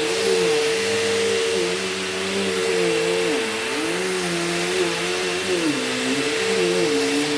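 Bissell CleanView Rewind Pet upright vacuum cleaner running over carpet: a steady motor whine and air hiss, with a lower tone that dips and recovers every second or so as the vacuum is pushed back and forth.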